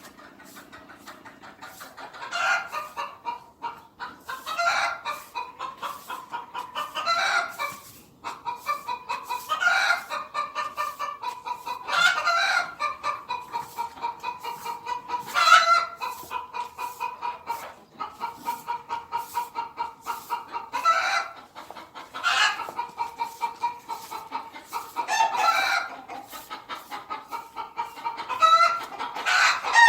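Chickens clucking in a quick steady run, with a louder call every two to three seconds.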